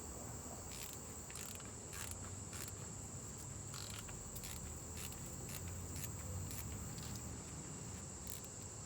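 A steady, high-pitched insect trill, with light clicks at irregular intervals about every half second.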